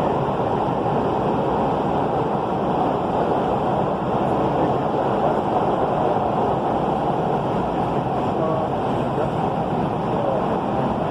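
Kinkisharyo P3010 light rail vehicle in motion, a steady rolling rumble and rush of the train running along the track.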